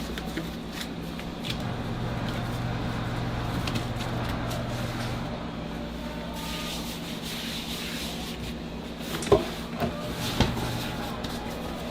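Pastry dough being worked on a wooden board: a steady rubbing and rolling, with three sharp knocks near the end, over a low steady machine hum.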